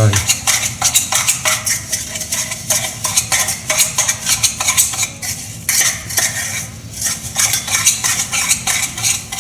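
Sugar being whisked briskly with a little moka-pot espresso to beat it into a thick coffee cream, the utensil clicking rapidly and steadily against the side of its container.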